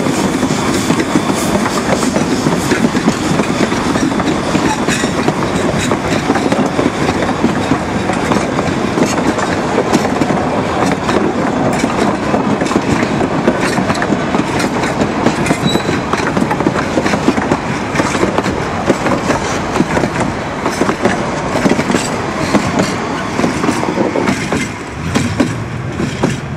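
A steam-hauled narrow-gauge passenger train's coaches rolling past close by, the wheels clattering steadily over the rail joints. The level eases a little near the end as the last car passes.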